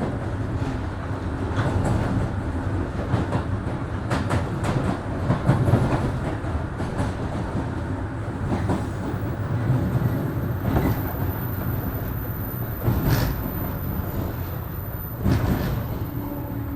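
Interior running noise of a 103 series 1500 subseries electric train: a steady low rumble of wheels and motors, with sharp clacks as the wheels cross rail joints.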